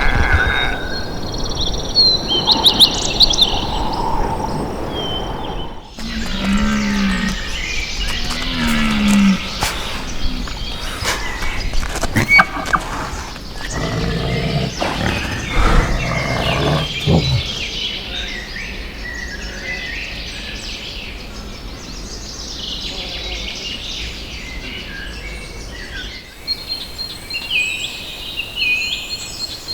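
Low, moo-like bellows of American bison: two short calls that rise and fall about two seconds apart, then a longer low bellowing stretch. Small birds chirp in the background.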